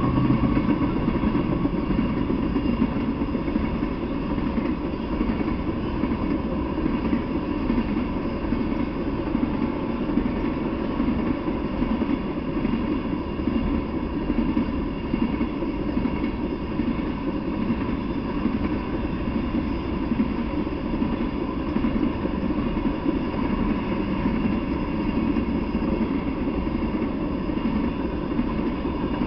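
Freight train of tank cars rolling past at a steady pace: a continuous rumble of steel wheels on the rails.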